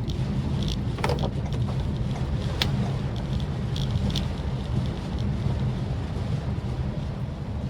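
Steady low rumble of a Maruti Suzuki Swift Dzire driving in the rain, heard from inside the car, with a few short light ticks over it.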